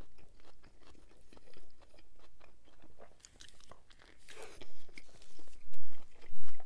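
Close-up chewing and biting into a breaded chicken sandwich: wet chewing with crisp crunches and mouth clicks, the loudest two near the end.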